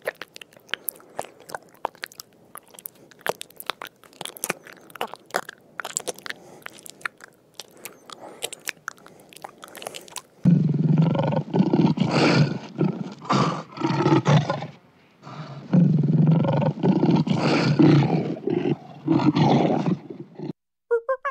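First, about ten seconds of fast, irregular crunching clicks from a snail feeding on a leaf. Then lions roaring in long, loud calls with short breaks, stopping just before the end.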